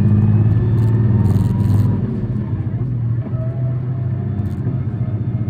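City bus diesel engine heard from inside the cabin, pulling under load with a steady low drone, then easing off about two seconds in as the level and pitch drop slightly.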